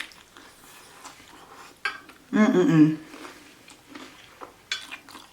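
Quiet eating and handling noises: small clicks and short rustles, with a brief vocal sound from the eater about halfway through.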